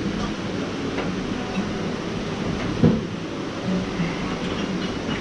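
Outdoor restaurant background: a steady rushing noise with faint murmur of distant voices, and a single sharp knock about three seconds in.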